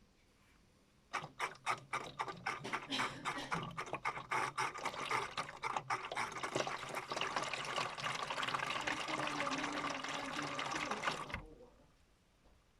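Water spurting into a modified Miele W1 toy washing machine during its rinse, sputtering at first and then running steadily, cutting off suddenly near the end.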